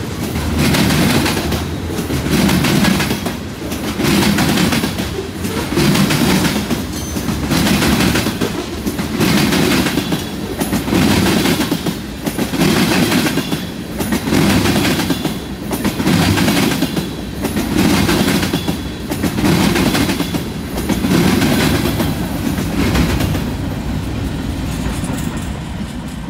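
Freight cars of a slow-moving train, covered hoppers and tank cars, rolling past with their wheels clacking in a steady repeating beat. The sound fades near the end as the last cars roll away.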